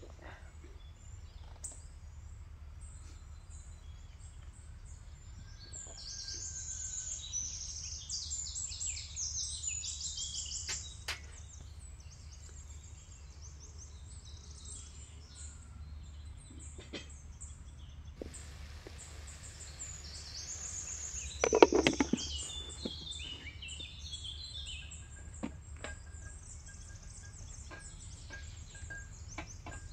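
Small birds chirping and singing in bursts over a steady low rumble of background noise. About two-thirds of the way through, a brief clatter of sharp knocks is the loudest sound.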